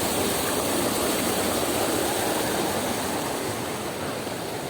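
Floodwater of a swollen creek rushing past in a strong current, a steady roar of water that eases slightly near the end.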